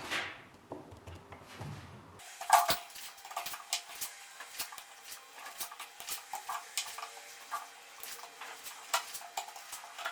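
Irregular light clicks and taps of hand-tool work on small pieces of wood, with one sharper knock about two and a half seconds in.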